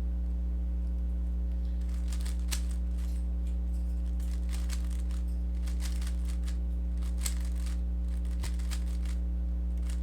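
Plastic Rubik's cube being turned quickly through OLL algorithms: several short runs of rapid clicking layer turns with pauses between. A steady low electrical hum runs underneath.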